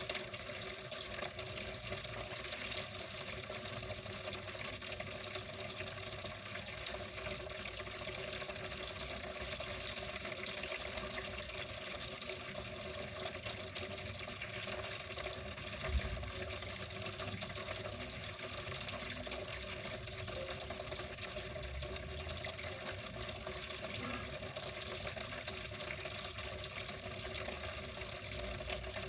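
Water flowing steadily without a break, with a brief low thump about halfway through.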